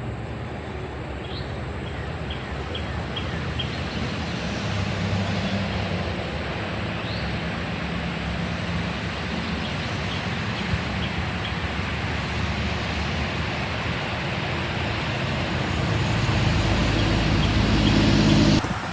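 Outdoor ambience: a steady rushing wash with a low engine-like hum, the hum swelling near the end before cutting off suddenly. Short high bird chirps come in quick series a couple of seconds in and again around the middle.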